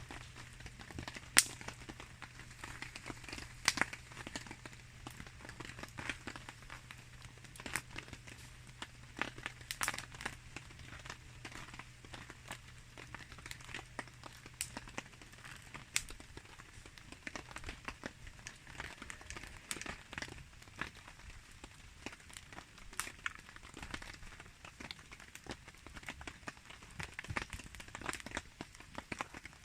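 Wood campfire crackling, with irregular sharp pops (the loudest about a second in), over a soft patter of rain.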